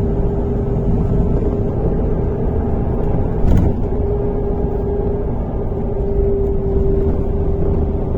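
MAZ-103 city bus on the move, heard from inside the passenger cabin: steady engine and road rumble with a constant whine, and a single knock about three and a half seconds in.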